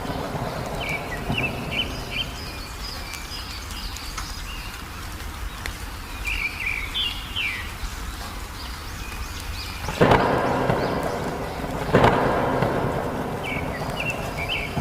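Steady rain with two sharp claps of thunder, about ten and twelve seconds in, each dying away in a rumble. A small bird chirps short phrases three times over it.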